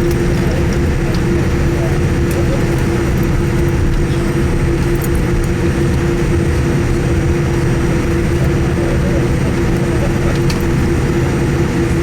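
Steady cabin noise of a Boeing 787-8 taxiing after landing: a constant engine hum with a clear steady tone over a low rumble.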